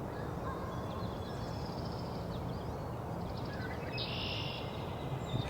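Several songbirds singing at once, among them an American goldfinch, a song sparrow, a northern cardinal and a brown-headed cowbird, over a steady low background rumble. A short dense burst of high chatter comes about four seconds in.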